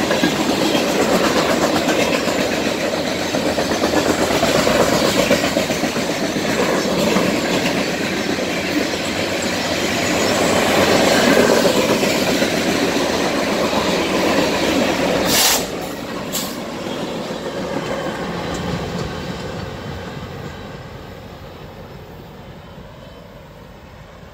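Coal train's open-top hopper cars rolling past close by, a steady rumble and clatter of steel wheels on the rails. About two-thirds of the way through the sound drops suddenly, and the rest of the train fades away into the distance with a faint high squeal.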